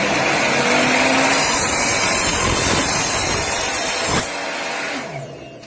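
Evolution F255SMS sliding mitre saw's 1600 W motor running at full speed, then switched off about four seconds in and winding down.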